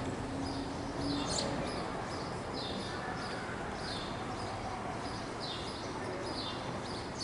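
A bird chirping repeatedly, short falling chirps about once or twice a second, over a steady background hum of noise.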